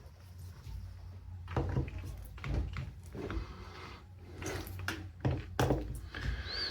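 Irregular light clicks and knocks as the electric drill's housing and a hand tool are handled and its screws snugged down during reassembly, starting about a second and a half in.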